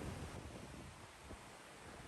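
Faint ocean waves washing on a shore, mixed with a steady white-noise hiss; a wave's low rumble swells at the start and eases off over the next second.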